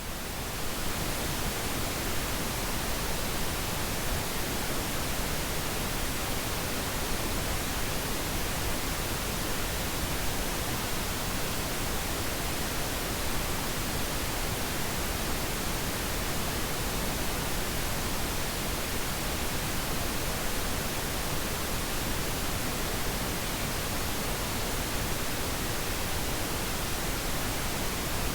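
Synthetic pink noise: a steady, even hiss spread across all pitches, without change or events.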